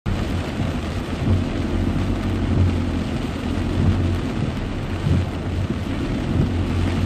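Heavy rain hitting a car, heard from inside the cabin over a steady low rumble of the car driving on a wet road.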